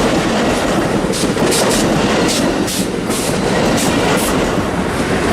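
Passenger train rolling past close by: a loud, steady rumble of wheels on rail, with a run of sharp clicks in the middle as the wheels cross rail joints.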